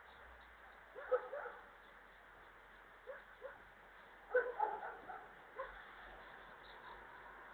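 Short, scattered animal calls: one about a second in, a pair near three seconds, and the loudest cluster a little past the middle, each call brief and pitched.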